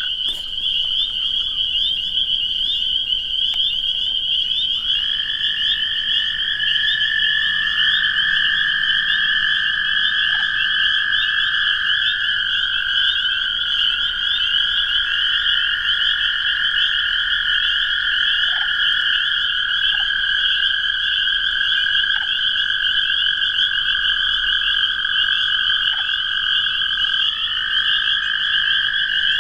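Chorus of spring peepers, a dense steady mass of high peeps, over several toads giving long, steady, overlapping trills lower down. One toad trills at the start, and more join about five seconds in.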